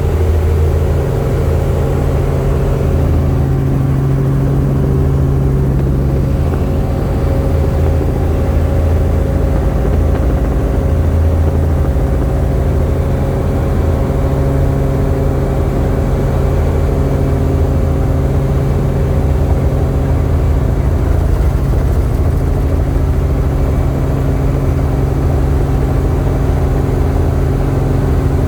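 Helicopter engine and rotor running steadily: a loud, even drone with a low rumble.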